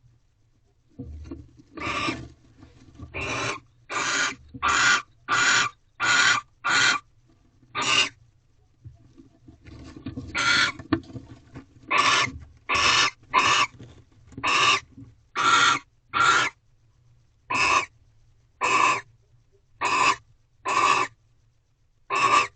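Barn owls in a nest box giving short, harsh rasping calls over and over, about one a second, with quieter scuffling around the first few seconds and again near the middle.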